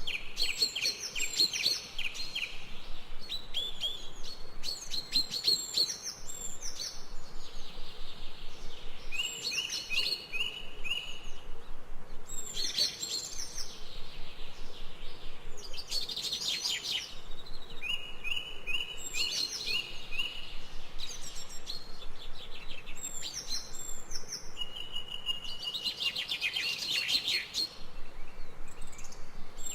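Birds singing, a phrase every few seconds, made of quick runs of repeated chirping notes and short trills, over a faint steady background hum.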